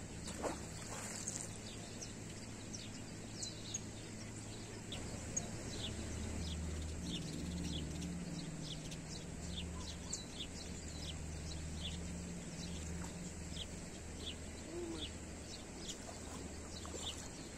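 Small birds chirping: many short, high calls scattered all through, with a low steady hum that comes in about six seconds in.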